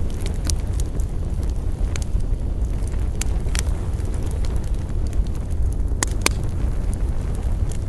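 Campfire burning with a steady low rumble and sharp, irregular crackles and pops, a few loud ones near the middle and two close together about six seconds in.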